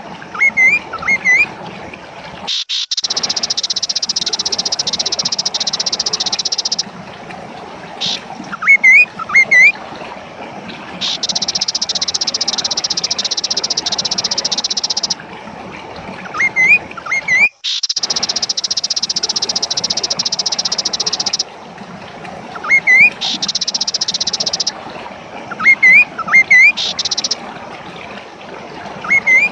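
Kaso-kaso bird calling: short, loud phrases of two or three quick up-sweeping notes, repeated every few seconds. Behind them a high, steady buzz starts and stops in long stretches.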